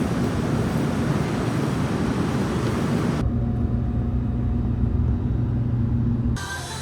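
Train running noise: a steady rumble with a low hum. About three seconds in it changes abruptly to a duller, more muffled rumble, then cuts off near the end.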